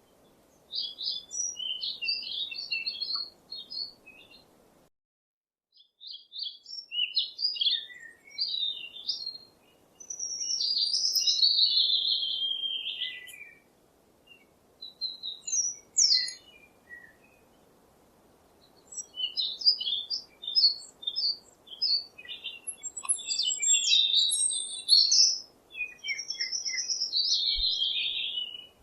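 Songbirds singing in phrases of rapid chirps and warbles, with a few short pauses between songs, over a faint steady background hiss.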